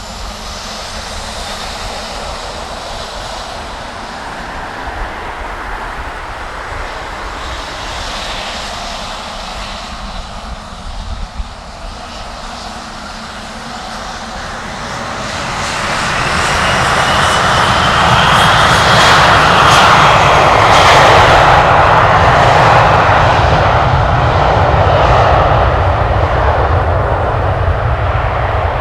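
Dassault Falcon 7X business jet's three turbofan engines at take-off power, a steady jet noise that grows much louder about halfway through as the aircraft passes close, then eases slightly near the end.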